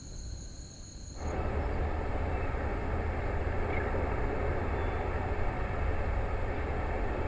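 Starship launch pad's water deluge system starting to spray, a sudden steady rush of water with a heavy low rumble beginning about a second in. Before it there is a second of quieter ambience with two steady high tones.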